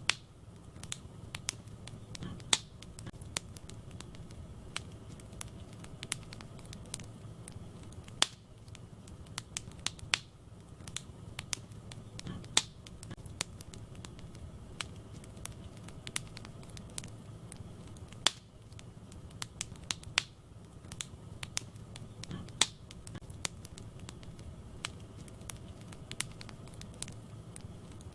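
Wood fire burning in a fireplace: a low steady rumble of flames with frequent irregular crackles and sharp pops of burning logs, a few of them louder.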